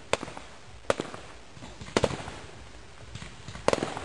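Aerial fireworks bursting: sharp bangs roughly once a second, with a quick flurry of several bangs near the end and faint crackling between them.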